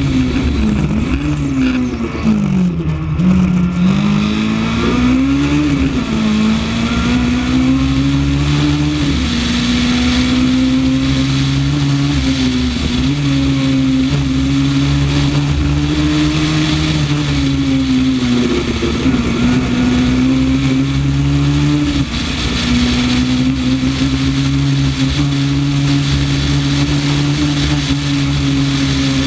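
Honda Civic rally car's engine at high revs under hard driving, heard onboard. The pitch falls and climbs again a few times near the start as the throttle is lifted and reapplied, then holds high and steady for long stretches, with a sudden short drop about three quarters through. Steady road and wind noise runs underneath.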